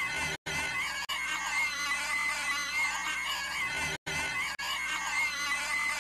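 A cartoon girl's voice making a high, wavering, inhuman shriek-like noise, held on and repeated as a loop. It cuts out for an instant at the loop joins, about half a second in and again around four seconds.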